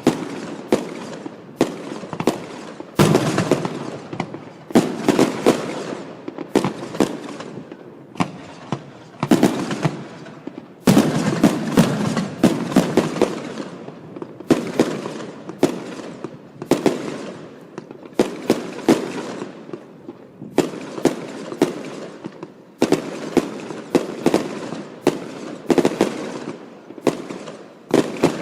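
Aerial fireworks display: a continuous barrage of sharp shell bursts, several a second in clusters, each bang trailing off in echo.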